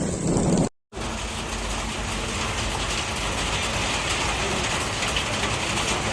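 Steady rain falling, an even hiss. It cuts out for a moment just under a second in, then goes on unchanged.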